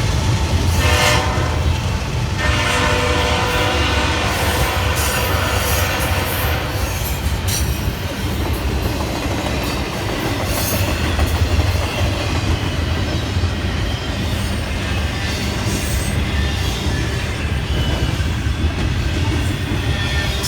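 Train passing close by with a steady low rumble. Its locomotive horn sounds briefly about a second in, then again for about four seconds. After that the cars keep rolling past with clickety-clack wheel clicks.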